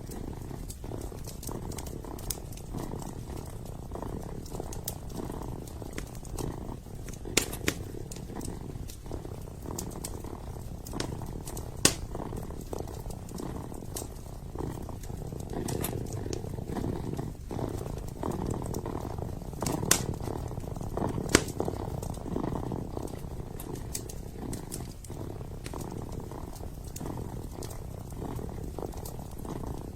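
A kitten purring steadily in a low rumble, with scattered sharp pops and crackles from a wood fire burning in a fireplace.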